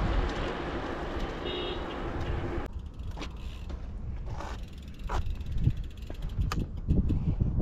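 Wind and road noise from a moving bicycle, which cuts off abruptly under three seconds in, followed by scattered light clicks and knocks.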